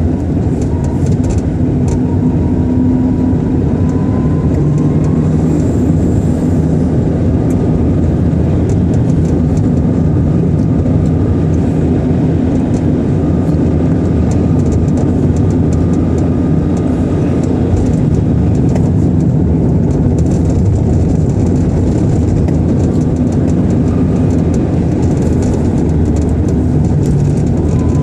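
Steady low rumble of a car driving in strong wind: road, engine and wind noise heard from inside the car.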